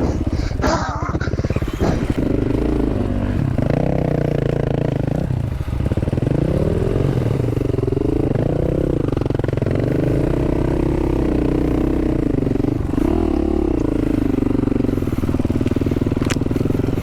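Dual-sport motorcycle engine being ridden on a dirt trail, its revs rising and falling as the throttle is worked.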